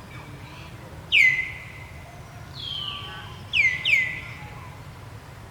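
Four high-pitched animal calls, the last two close together; each slides quickly down in pitch and is then held for a moment.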